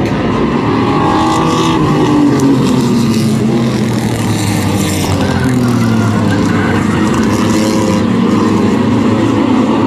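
Several race trucks' engines running on the track together, their notes rising and falling as they accelerate and lift.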